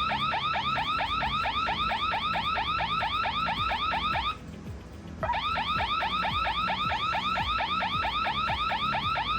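Electronic alarm siren played from a recording, sounding a fast run of rising whoops, several a second. It sounds in two long bursts with a gap of about a second between them.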